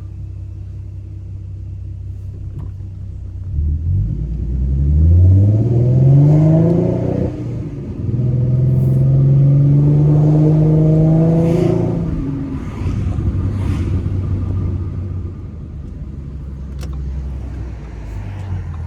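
2014 Ford Mustang's 3.7-litre V6, breathing through BBK shorty headers and a Roush axle-back exhaust, pulls hard at full throttle from a low cruising drone. The revs climb steeply for about four seconds and drop at an upshift, then climb again more slowly. The throttle closes about twelve seconds in and the engine settles back to the low drone.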